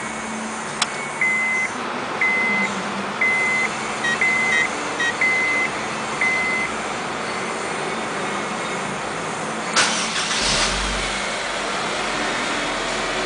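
A car's warning chime beeps about once a second for several seconds, then the Honda Civic Type R's 2.0-litre four-cylinder engine is started about ten seconds in and runs on at idle.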